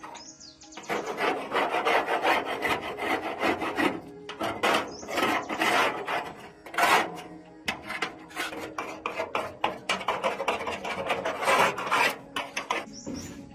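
Rapid back-and-forth rasping strokes of hand abrasive work on a hard workpiece, starting about a second in and stopping near the end, with two brief pauses along the way.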